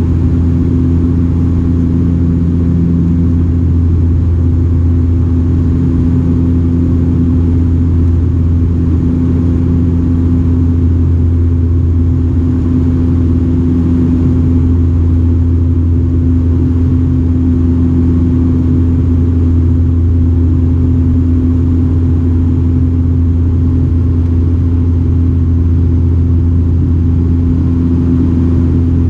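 Steady drone of a Bombardier Dash 8-402 (Q400) turboprop heard inside the cabin in flight: the deep hum of its Pratt & Whitney PW150A engines and six-bladed propellers, with a second, higher steady tone above it and a constant rush of air noise.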